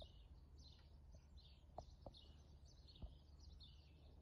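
Faint chirping and twittering of small birds, many short high chirps throughout, over a low steady rumble, with a few soft clicks about two and three seconds in.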